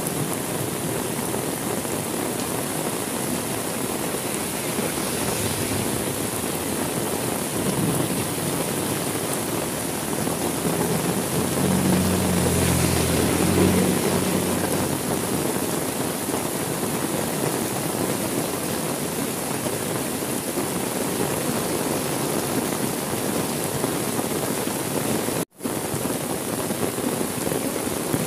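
Steady heavy rain, with a low rumble of thunder building about twelve seconds in. The sound cuts out for a split second near the end.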